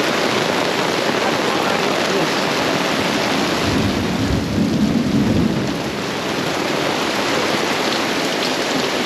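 Heavy rain pouring down steadily in a storm, with a low rumble of thunder about four seconds in. It is heavy enough to be flooding the campsite.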